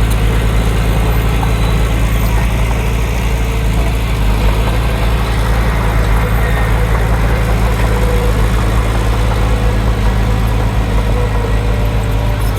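Heavy diesel engine of an earth-moving machine running steadily, its speed holding constant throughout.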